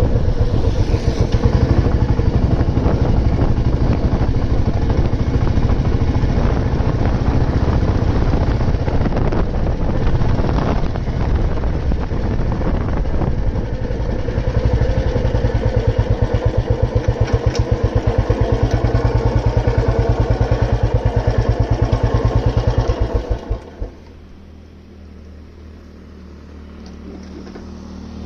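Old Royal Enfield Bullet 350's single-cylinder four-stroke engine running with its steady pulsing thump while riding. About 23 seconds in, the beats slow and stop as the engine is shut off, leaving a faint background.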